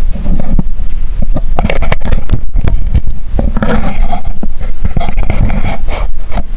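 Wind buffeting the microphone: a loud, steady low rumble with scrapes and knocks.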